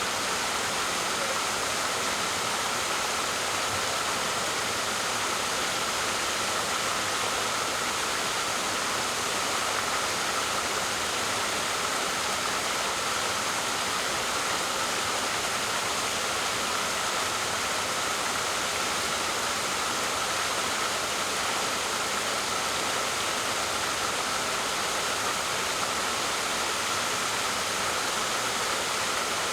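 Waterfall: a steady, unbroken rush of falling water, a dense hiss weighted toward the higher pitches.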